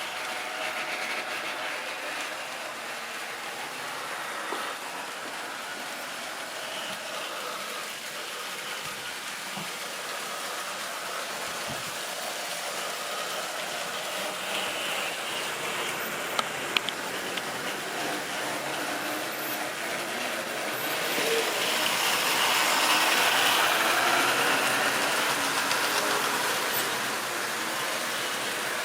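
Model railway train running on the track, a steady rolling rattle of wheels on rail. It grows louder about two-thirds of the way through, then eases off near the end, with a couple of sharp clicks midway.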